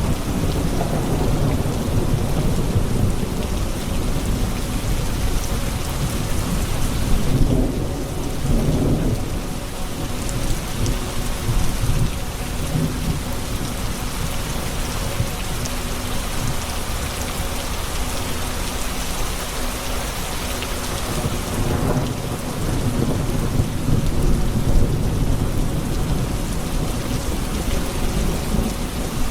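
Steady rain falling, with low rolling thunder that swells a few times.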